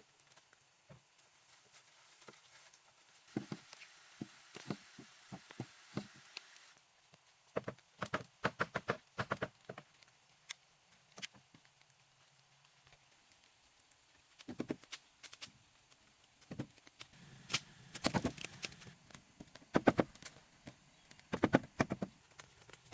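Irregular clusters of sharp taps and knocks, with quieter stretches between.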